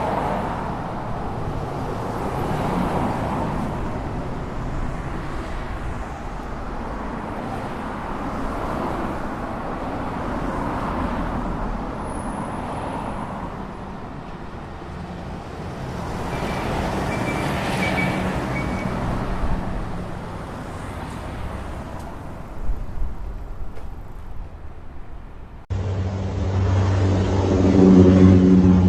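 Vehicle engine noise mixed with general outdoor noise. Near the end it cuts abruptly to a louder, steadier engine sound.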